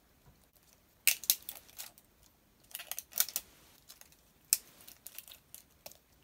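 Plastic toy packaging crinkling and crackling as it is handled and opened, in irregular clusters of short, sharp bursts starting about a second in.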